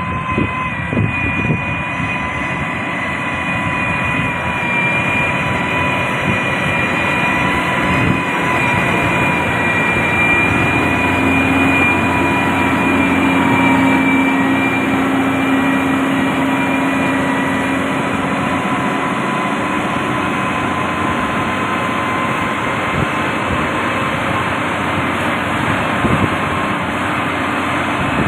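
Heavy road-construction machinery's diesel engine running steadily under load, with a high steady whine over the engine note. A few short knocks come in the first couple of seconds and again about eight seconds in.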